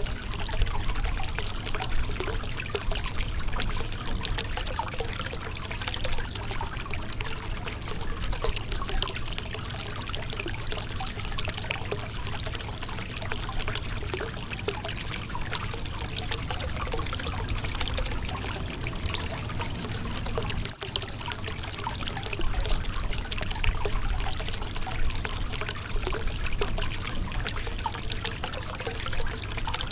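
Shallow river water running and trickling over a rocky bed: a steady splashing with many small bubbling crackles. It dips for a split second about two-thirds of the way through.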